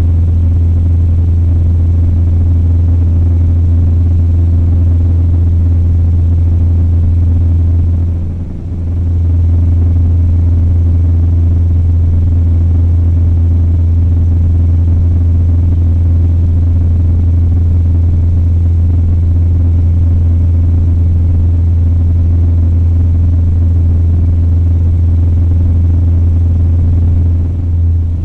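Cessna 172M's four-cylinder Lycoming engine and propeller droning steadily, heard from inside the cabin as a loud, low, even hum, with a brief drop in level about eight seconds in.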